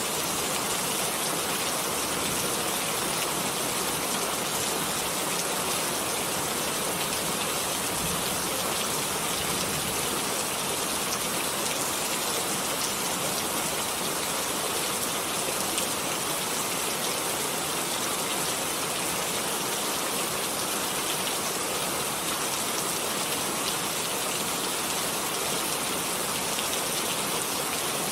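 Steady heavy rain falling, a continuous even hiss of drops with no breaks or distinct impacts.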